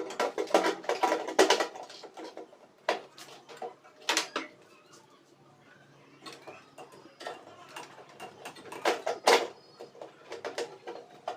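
Irregular metallic clicks and knocks of parts being handled and fitted while a replacement magnetron goes into a microwave oven, in bunches with quieter gaps between.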